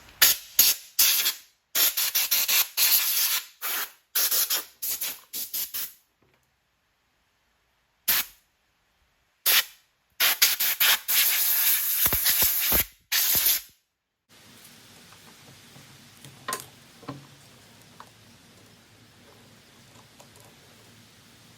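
Pressurised spray hissing in a quick series of short bursts, then a few longer blasts around ten seconds in; the sound drops out to dead silence for a few seconds in between. After about 14 s only faint low background noise with a couple of light clicks remains.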